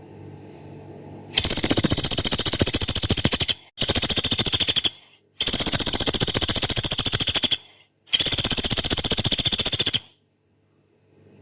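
Pelatuk beras, a small pygmy woodpecker, giving four long, harsh, rapid rattling trills, each lasting one to two seconds, with short breaks between them.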